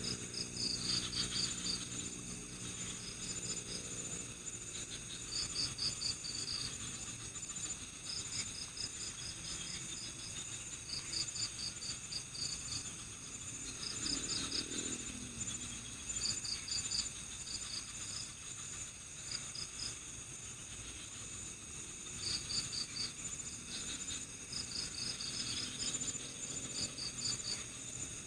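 Crickets chirping in a forest at night: short trains of rapid high-pitched pulses, repeated every second or two, over a steady high insect drone.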